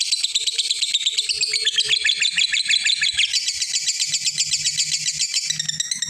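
Lovebird giving its long 'ngekek' chatter: an unbroken, fast run of shrill, high notes, many to the second, shifting slightly in pitch a few times.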